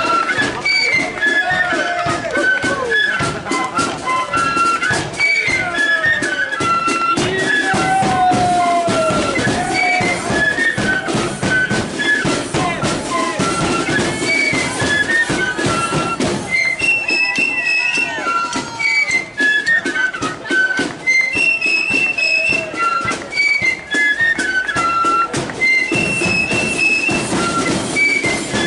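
Flute band playing a march: flutes carry a quick tune over steady drumming.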